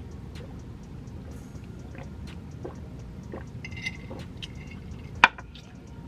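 Close-up eating sounds: chewing chicken with wet mouth smacks and small clicks, and one sharp smack a little past five seconds in.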